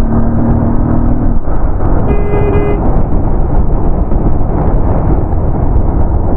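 Heavy wind buffeting on a phone microphone while riding a motorcycle, a steady loud rumble. A steady low tone stops about a second and a half in, and a vehicle horn gives one short honk about two seconds in.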